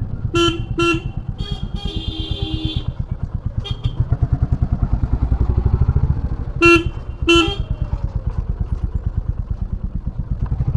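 Royal Enfield Classic 350's single-cylinder engine thumping steadily on the move, with two pairs of short horn beeps, one near the start and one about two-thirds of the way through. A brief higher-pitched tone sounds about two seconds in.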